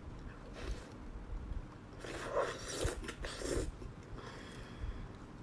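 Close-miked eating sounds from beef bone marrow: a few wet sucking slurps in a cluster from about two to three and a half seconds in, with softer mouth noises around them.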